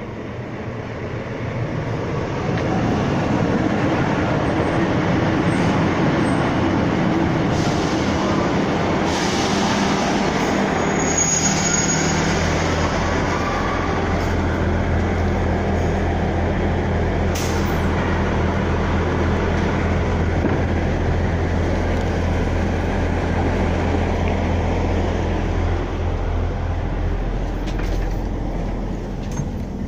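Diesel multiple-unit passenger train running into the platform, growing louder over the first few seconds. It gives a brief high squeal as it comes to a stand, then its underfloor engine idles with a steady low hum.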